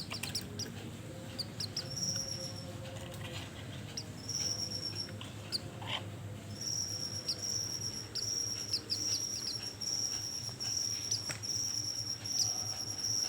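White-eye (pleci) lure calls: short, high chirps, with a steady high-pitched trill that comes in briefly a couple of times and then runs almost unbroken from about a third of the way in.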